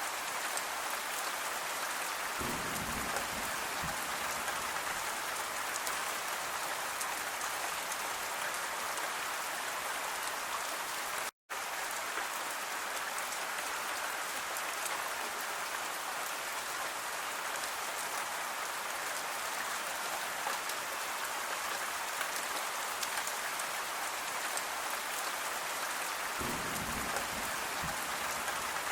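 Steady rain falling on a surface, a dense even hiss flecked with the patter of individual drops. A soft low rumble comes twice, once near the start and once near the end. The sound cuts out for an instant about eleven seconds in.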